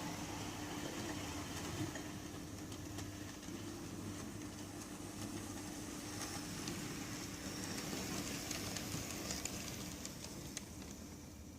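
Graham Farish N gauge GWR 61XX Prairie tank model locomotive running: a steady electric motor hum with a faint whirr, a few light ticks, growing fainter near the end.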